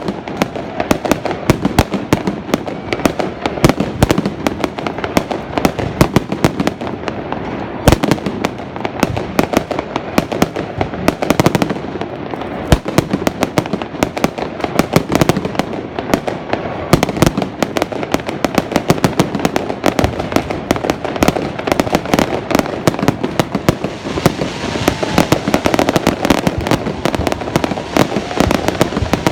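Many fireworks going off at once: a dense, unbroken run of sharp bangs, many each second, overlapping one another.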